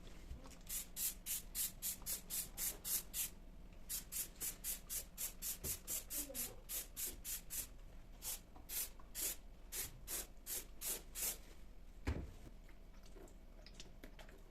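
Quick rhythmic rubbing or scrubbing strokes, about four or five a second, in three bouts of a few seconds each with short pauses between, then a single knock about 12 seconds in.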